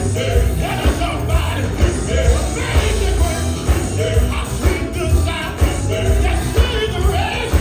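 Live gospel band playing: voices singing over a heavy bass line and a steady drum beat.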